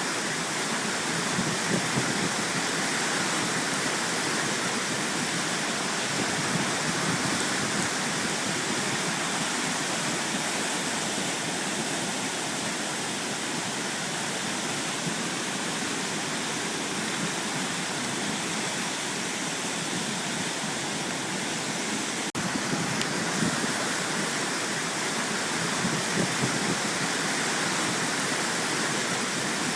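Ball Mountain Brook in full flood from hurricane rains, its floodwater rushing steadily.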